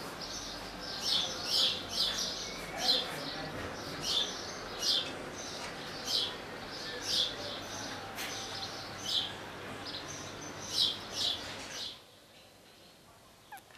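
Small birds chirping over and over: short, high chirps, many in quick pairs, over a faint steady hiss. The chirping stops abruptly near the end.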